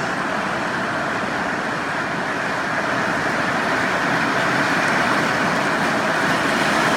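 Very heavy rain pouring down: a dense, steady hiss that slowly grows louder.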